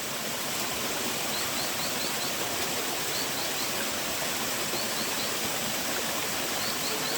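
Steady rushing of a forest stream. Faint, short high chirps come in runs of three or four, about four times over.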